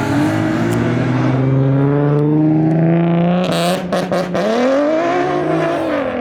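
A car engine accelerating hard, its pitch climbing steadily for about three seconds. A few sharp cracks come about four seconds in, then the engine revs up and back down.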